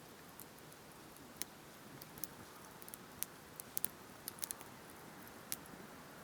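Wood campfire crackling: irregular sharp pops and snaps over a faint steady hiss, several coming in quick succession a little past the middle.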